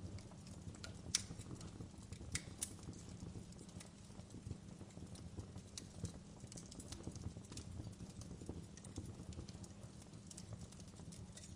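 Wood fire crackling: irregular sharp pops and snaps over a low steady rumble, with one louder pop about a second in.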